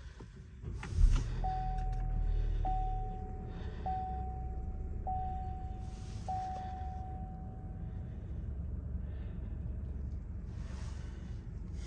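A thump about a second in, then a vehicle's engine running steadily while a warning chime rings five times, about once a second.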